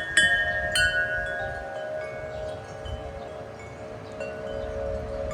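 Wind chimes ringing in the wind: a few tubes are struck within the first second, and their several notes ring on and slowly fade. Low wind noise runs underneath.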